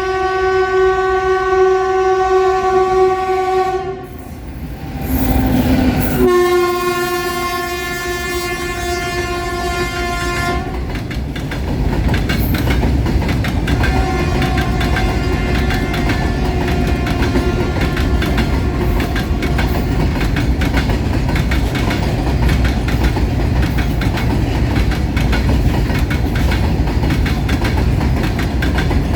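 Indian Railways WAG-7 electric locomotive sounding two long horn blasts, the second starting about six seconds in. From about eleven seconds in the loaded freight train runs past with a steady rumble and clickety-clack of wagons on the rails.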